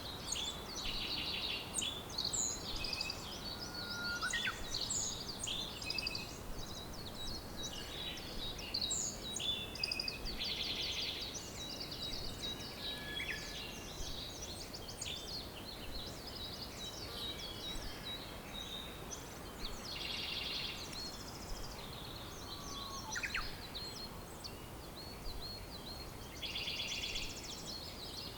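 Several songbirds singing together, with overlapping chirps, quick trills and thin whistles, over a steady background hiss.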